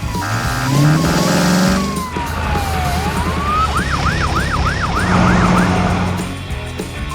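Cartoon police siren sound effect: a slow wail that falls and rises again, then switches to a fast yelp of about three sweeps a second, over a low steady rumble and music.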